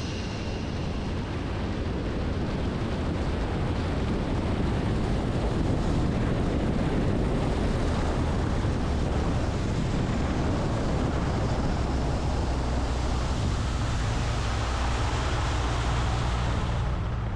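Seaplane engine running steadily under a loud rushing noise, with a steady low hum; it swells slightly over the first few seconds, then holds.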